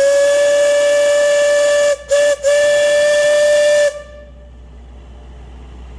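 Alishan Forest Railway steam locomotive's steam whistle blowing: a long blast, a short toot, then another long blast, about four seconds in all, with a breathy hiss over the tone.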